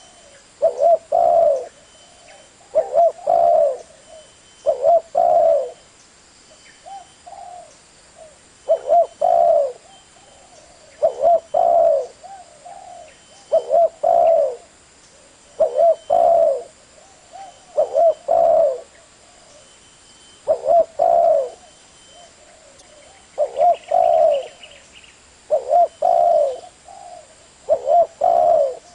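Spotted dove (tekukur) cooing: the same short phrase of a few low coo notes repeated about every two seconds, with a longer pause about six seconds in.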